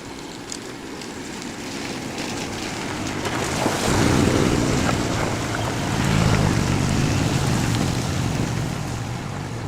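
Loud rushing wind noise over a low rumble, as from a moving vehicle, starting abruptly and swelling about four seconds in.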